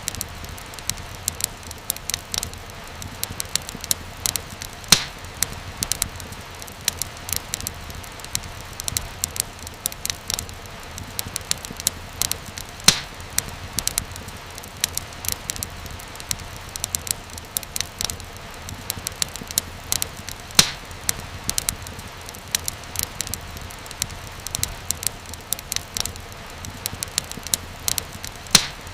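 Wood fire crackling, with frequent irregular pops and snaps over a steady low hiss; a few pops stand out louder.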